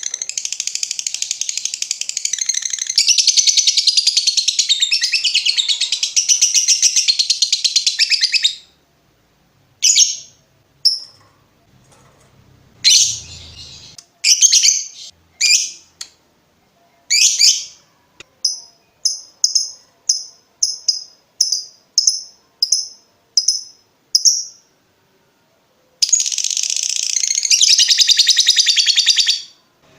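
Lovebird singing: a long, rapid, unbroken chattering trill (ngekek) for about eight seconds, then a few single sharp calls. It follows with a run of about a dozen short high ticking notes, about two a second (ngetik), and a second long chattering trill near the end.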